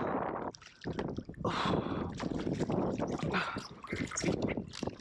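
Water splashing and irregular knocks and rattles against a kayak as a hooked fish is hauled aboard and thrashes.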